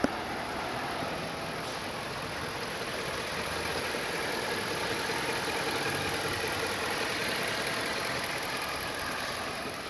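Ford F150 pickup's engine idling steadily, a little louder in the middle, after a brief click at the very start.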